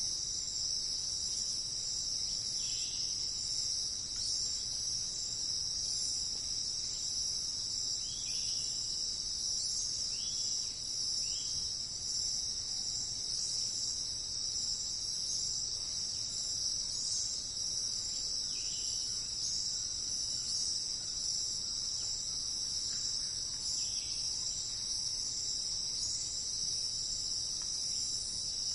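Steady high-pitched insect chorus of crickets trilling without a break. Over it, a handful of short falling bird chirps come at irregular moments.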